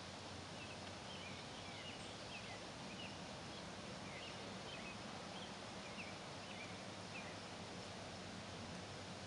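Quiet outdoor ambience: a steady low hiss with many short, high bird chirps scattered through most of it, stopping about two seconds before the end.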